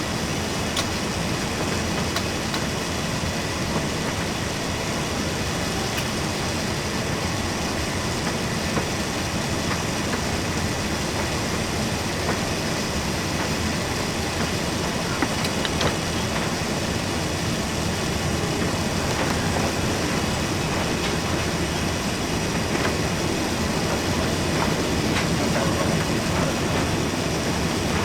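Steady rumble of jet engines and airflow inside the cabin of an Airbus A380 airliner, with the rattle of the aircraft rolling on the ground after landing; it grows a little louder near the end.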